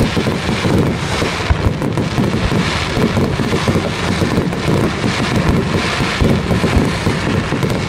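Aerial fireworks barrage: many shells bursting in quick succession, their bangs and crackling blending into a continuous loud noise.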